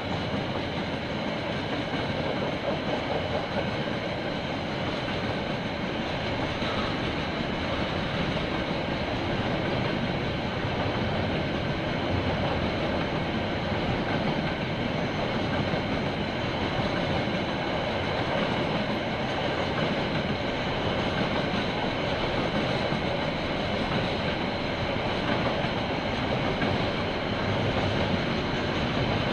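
KiwiRail train rolling steadily past, with a continuous noise of wheels running on the rails.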